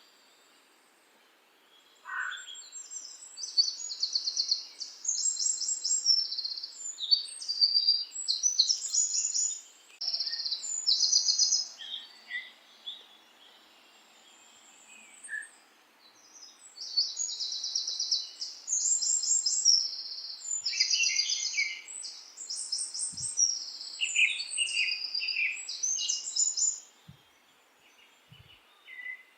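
Songbirds singing in rapid, high-pitched trilled phrases, in two long bouts with a pause of a few seconds in between, over a faint steady hiss.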